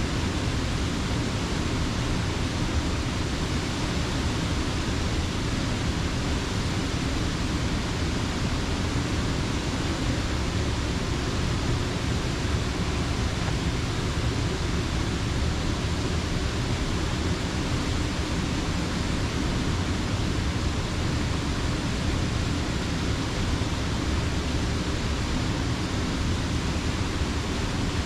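Rushing water of Slippery Rock Creek at the grist mill dam: a steady, even rush with nothing standing out from it.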